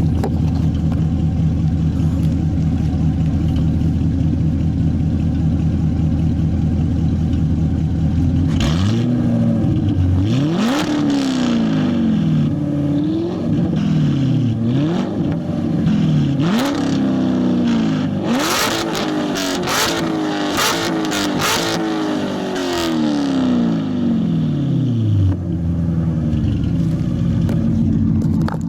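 Straight-piped 2014 Corvette Stingray C7 V8 with long-tube headers, X-pipe and aftermarket exhaust, idling steadily, then free-revved in a series of quick blips about eight seconds in, each rev rising and falling in pitch, with sharp cracks among them, before settling back to idle near the end.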